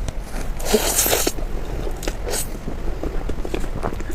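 Close-miked eating of a soft cake: a wet, squishy bite about a second in, followed by small clicks of chewing.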